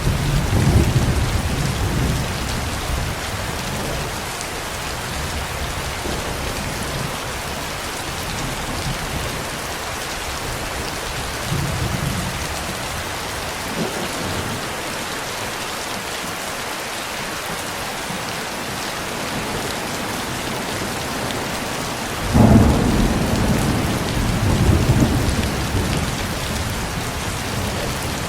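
Steady rain with rolling thunder: a rumble dying away over the first few seconds, a faint one around the middle, and a sudden louder crack of thunder about three quarters through that keeps rolling for several seconds.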